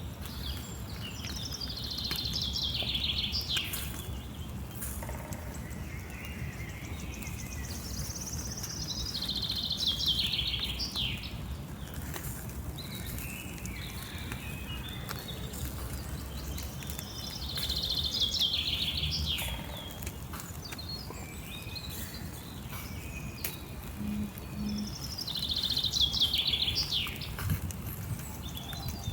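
A songbird singing the same short phrase four times, about every eight seconds: a fast trill that falls in pitch. A steady low rumble of outdoor noise lies underneath.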